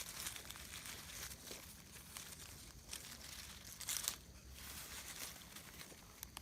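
Dry leaf litter rustling and crackling in short, scattered bursts, with the sharpest crackles around four seconds in.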